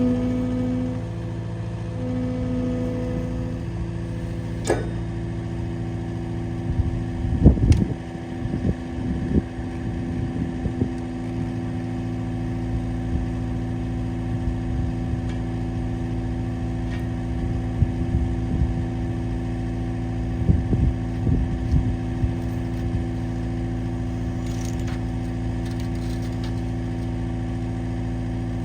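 An engine running at a steady idle, with short irregular knocks and rattles a few seconds in and again past the middle.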